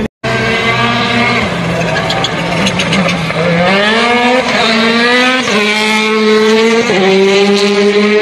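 Rally car engine revving hard as the car speeds by, its pitch climbing and then dropping in steps, like a car accelerating and shifting up through the gears.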